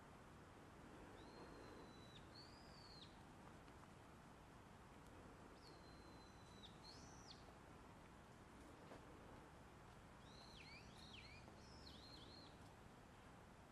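Faint outdoor quiet with a small bird calling in three short bouts of high whistled notes: a held note followed by a quick curving one, about a second in and again about six seconds in, then a run of rapid dipping notes near the end.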